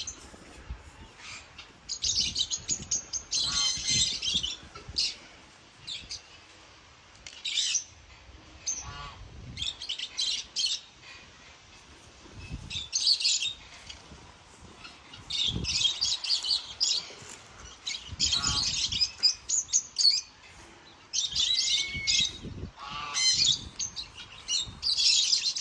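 Birds chirping and squawking in repeated bursts, with a short gliding call now and then. Fainter low scrapes and thuds from a rake working loose soil sound between the calls.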